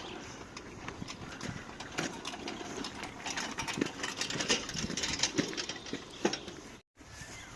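Stump grinder with an 8 hp engine working, its Greenteeth cutter teeth chewing into a stump: a dense, irregular crackle of sharp impacts and flying chips over the running machine. The sound cuts out briefly near the end.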